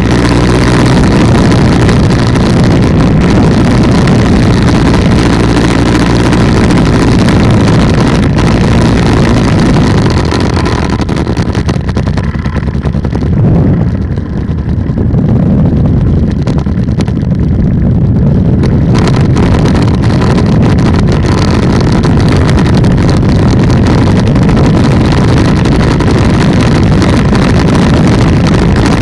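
Polini 190 two-stroke paramotor engine on an ultralight trike running steadily in flight, with rushing air noise over it. For several seconds in the middle the hiss drops away and the sound goes duller and a little quieter.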